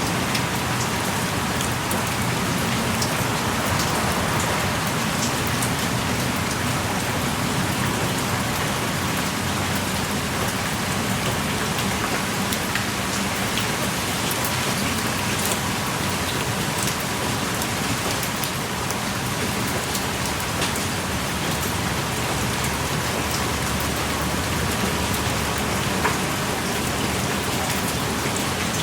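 Steady heavy rain pouring down, heard from the shelter of a small cave, with many close individual drops ticking sharply through the even hiss.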